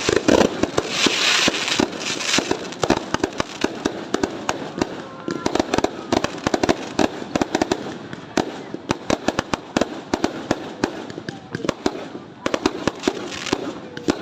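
New Year fireworks going off continuously: a dense run of sharp bangs and crackles, many each second, loudest about one to two seconds in.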